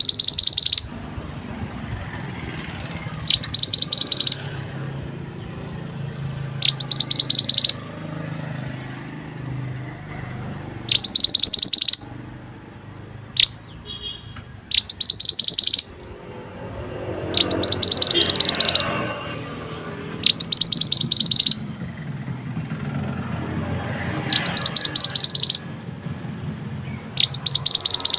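A mantenan (pied bushchat) singing: about nine short bursts of a fast, tightly packed high trill, each about a second long, repeated every two to three seconds over a faint low background rumble.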